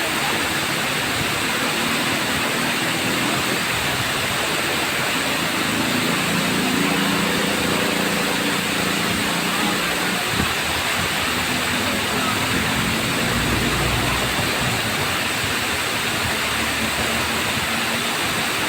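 Tamaraw Falls, a waterfall, rushing steadily. A faint low drone comes and goes underneath.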